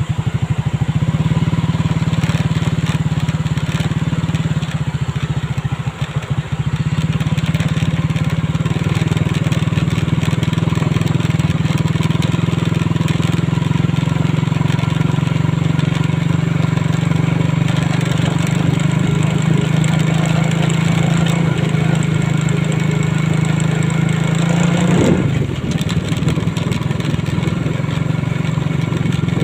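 Motorcycle engine running steadily under way, with a rushing haze of road and air noise. A few seconds before the end the engine note falls sharply, then settles at a lower, steady pitch.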